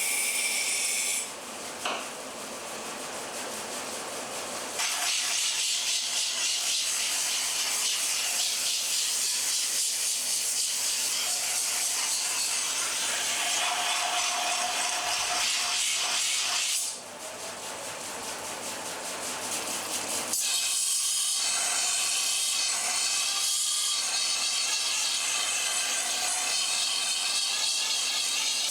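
Steel knife blade being ground on the coarse abrasive belt of a belt grinder: a steady rasping hiss of metal removal. The sound changes abruptly several times, about 5, 17 and 20 seconds in, as passes start and stop.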